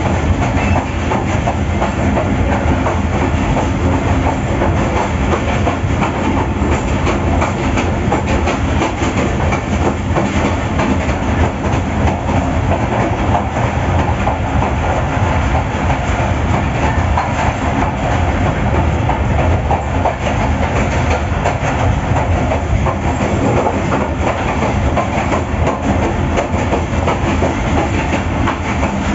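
Freight train hauled by a GEU-40 diesel-electric locomotive, heard from aboard while running: steady rumble and clatter of wheels on the rails, with the locomotive's diesel engine running underneath.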